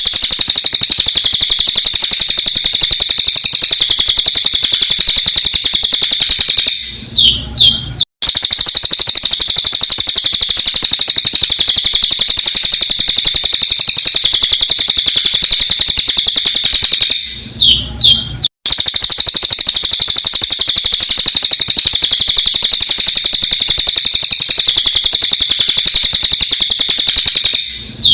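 Sped-up recording of a cililin singing: a loud, dense, rapid run of high-pitched chirps. It breaks off twice, about every ten seconds, with a short gap and a low thud where the loop restarts.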